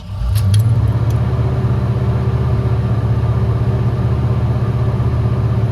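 1989 Ford Bronco's 5.8-litre V8 catching on a cold start in the first moment, with a few light clicks, then settling into a steady fast idle. The raised idle is the normal cold-start fast idle, which takes about half a minute to drop below 1,000 rpm.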